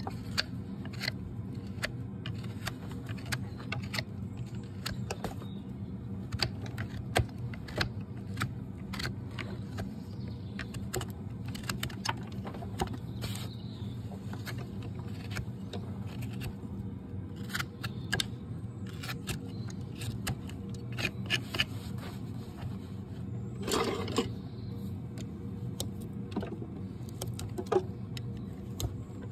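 Farrier's hoof-trimming tools working a shire horse's hoof: a string of short sharp clicks and scrapes, with a longer scrape near the end, over a steady low hum.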